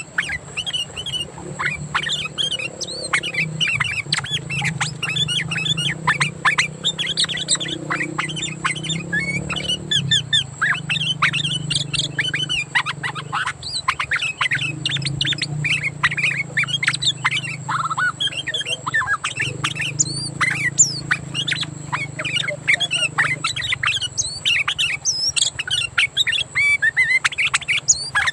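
Sooty-headed bulbuls (kutilang) singing: a fast, continuous run of short chirps and whistles, over a low steady hum.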